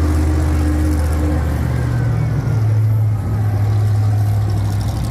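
Monster truck's Chevrolet V8 engine running at low revs, its note stepping up a little about two seconds in.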